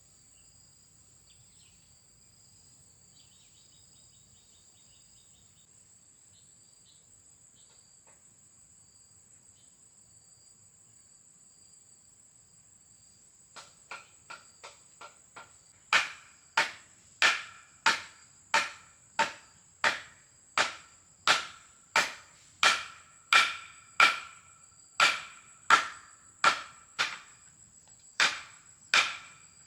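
Crickets keep up a steady high drone. About halfway in a few light taps start, then regular hard hammer blows follow at about one and a half a second, each ringing briefly.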